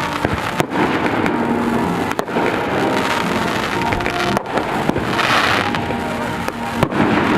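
Fireworks display: aerial shells bursting with a few sharp bangs and a hissing crackle a little past the middle, over continuous rumble and music.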